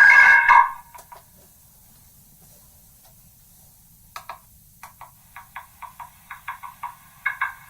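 Megaphone playing back a voice recording that has been re-recorded through megaphones many times, the speech eroded into a loud ringing of steady tones. The ringing cuts off just after the start, and from about halfway through comes a run of short, thin clicks that speed up toward the end.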